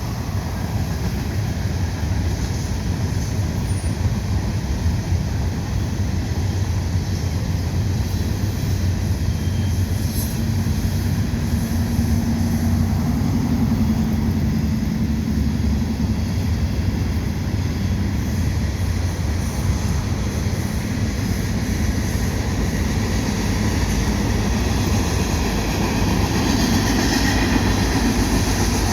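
Norfolk Southern freight train rolling along, a steady low rumble of the cars on the rails.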